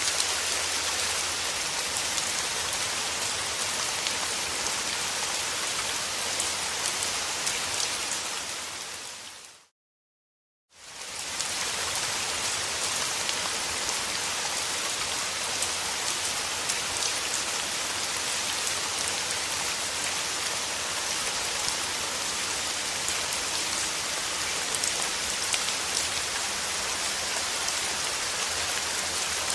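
Steady rain falling on a surface, an even hiss with the patter of individual drops. About nine seconds in it fades out to a second of silence and fades back in, like the seam of a looped recording.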